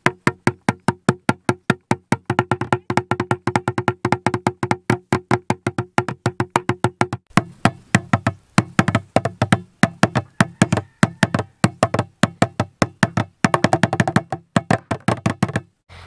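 Fast stick drumming on improvised drums, a tin and a plastic drum, at about six strikes a second in a steady beat, with short breaks about seven seconds in and again near the end.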